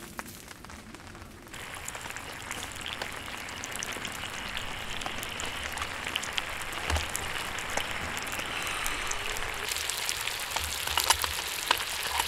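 Food sizzling in a small iron skillet over a charcoal grill: a steady hiss with scattered crackles and pops. It grows louder about a second and a half in and again near the end.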